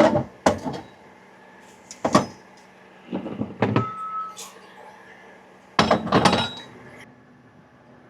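Hard metal clanks and knocks in about five separate bursts a second or two apart, the loudest pair about six seconds in, as tow gear is worked by hand.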